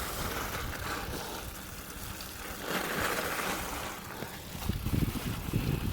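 Mountain bike tyres rolling through soft, wet snow and slush, a steady wet hiss. Wind buffets the microphone near the end.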